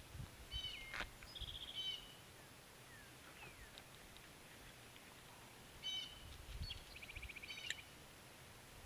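A songbird singing the same short song twice, a few seconds apart: a few clear high notes followed by a fast trill. The song is faint, with a few soft low thumps beneath it.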